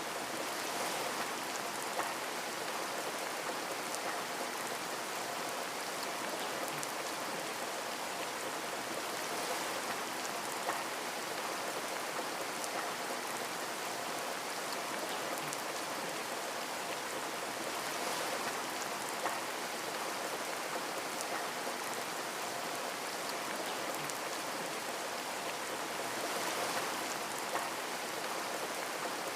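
Steady rain pattering on a window, with now and then a single sharper drop tick.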